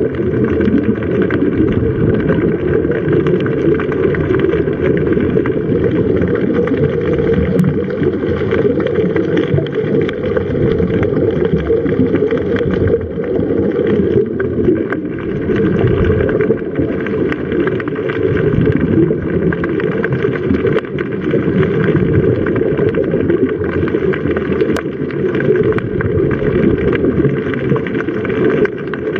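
Boat engine running steadily under a heavy low rumble of water and wind, with a steady drone of engine tones that holds throughout.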